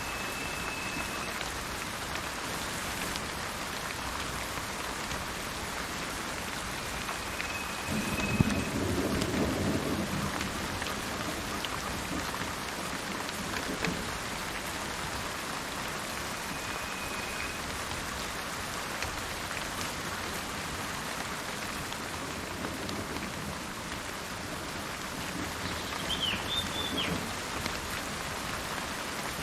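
Steady rainfall with a low rumble of thunder about eight seconds in. A few short, high bird notes sound over the rain, with a brief chirp near the end.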